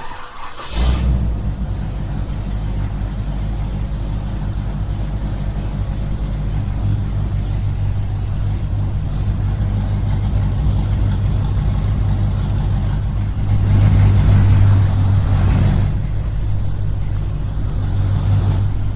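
Small engine running steadily, with a short rush of noise about half a second in and a louder stretch about two-thirds of the way through.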